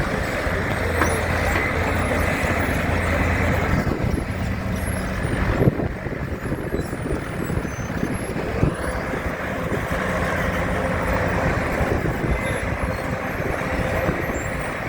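Engine of a vintage Ford County timber winch tractor running steadily. A sharp knock comes about six seconds in, and a softer one near nine seconds.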